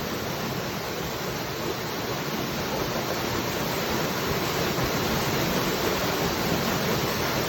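Waterfall: a steady rushing of falling water, with no separate splashes or breaks.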